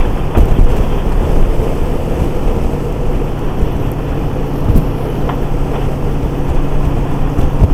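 Motorcycle at highway speed: heavy wind rush on the microphone over a steady engine hum.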